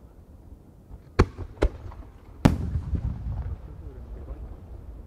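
Large aerial firework shells bursting: two sharp booms half a second apart about a second in, then a louder third boom about a second later, followed by a low rumble.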